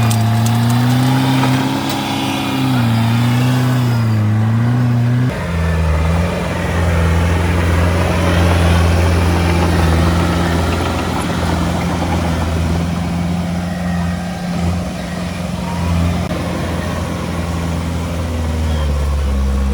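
Heavy-equipment diesel engine running under varying throttle, its pitch rising and falling. About five seconds in the sound changes abruptly to a lower, steadier engine note.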